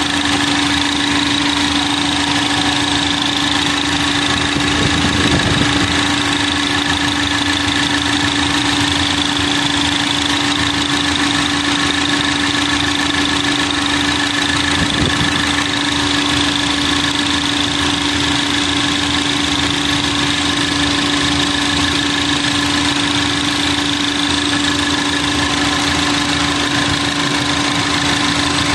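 Lincoln car engine idling steadily with a constant hum, a little rougher about five and fifteen seconds in. The owner says it seems to misfire since a tune-up, though it stores no trouble codes.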